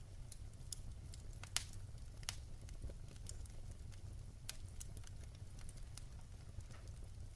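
Firewood burning in a fireplace, crackling with irregular sharp pops, the loudest about a second and a half in, over a low steady rumble.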